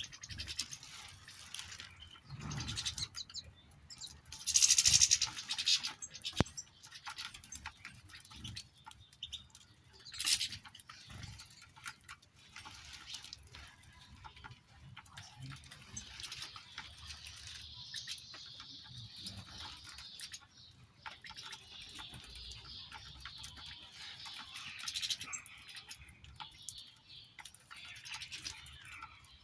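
Small cage finches chirping and twittering. A few loud, short rustling bursts come at about five and ten seconds in, and a denser run of high twittering fills the second half.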